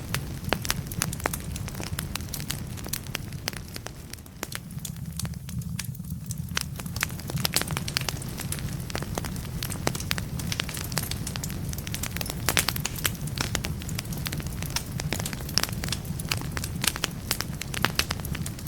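Wood fire burning in a fireplace: logs crackling and popping in many sharp snaps over a steady low rumble of flames. The snaps thin out briefly about five seconds in, then pick up again.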